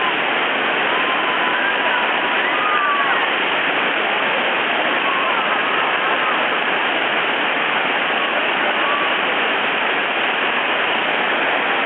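Steady rush of a whitewater rapid pouring over a waterfall drop.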